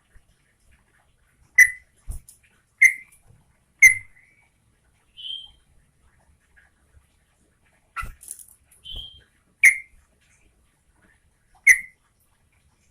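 Yellow-vented bulbul (trucukan) giving a series of short, sharp call notes every second or two, with softer, higher notes between them.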